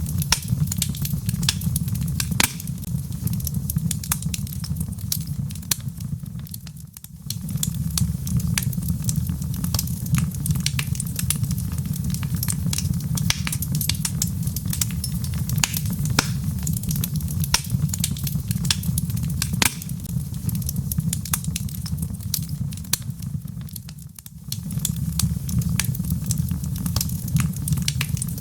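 Wood log fire burning, with constant sharp crackles and pops over a low steady rumble of flame. The sound dips briefly twice, about seven seconds in and again near the end.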